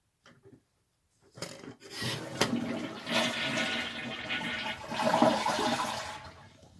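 Toilet flushing: a rush of water that starts about a second and a half in and dies away near the end.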